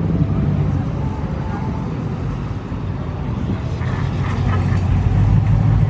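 Car engine running with a low, steady hum, growing a little louder near the end.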